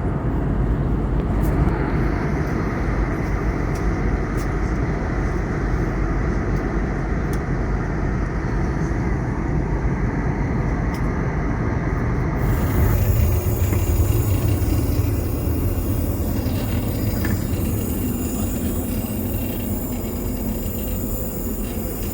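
Cabin noise inside an Airbus A321neo in flight: a steady rushing roar of airflow and engine drone. About twelve seconds in, the sound changes abruptly to a mix with more hiss and a stronger low hum.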